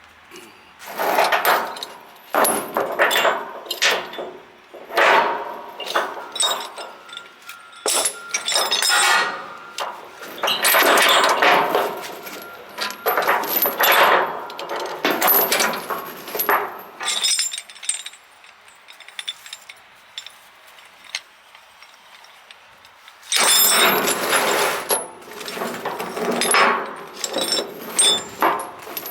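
Steel tie-down chains rattling and clinking in irregular bursts as they are pulled and handled, with a quieter stretch of several seconds past the middle.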